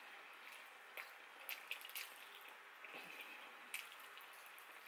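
Faint wet clicks and smacks from chewing saucy sweet and sour chicken wings and pulling a wing apart by hand, about six spread over a few seconds.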